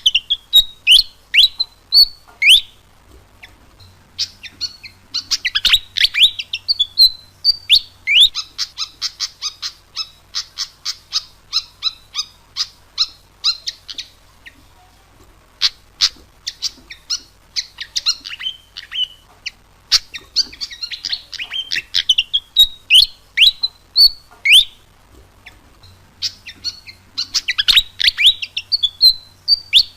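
Malaysian pied fantail singing: phrases of quick, squeaky chirps and rising and falling whistled notes, with rapid runs of short notes, broken by brief pauses every several seconds. It is a looped training recording (masteran) meant to get a pet fantail singing.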